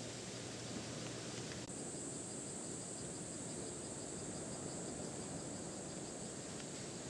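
Rainforest insects (crickets, katydids or cicadas) calling in a steady high-pitched chorus with a faint even pulse. The chorus gets suddenly louder about a second and a half in.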